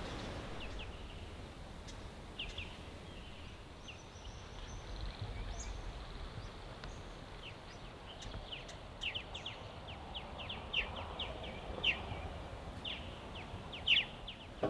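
Small birds chirping in short, quick calls, sparse at first and more frequent in the second half, over a faint low outdoor background.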